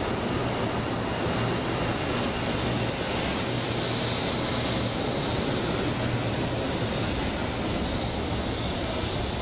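Steady running noise inside a Shinkansen bullet train car: an even rushing hiss over a low hum, unchanging throughout.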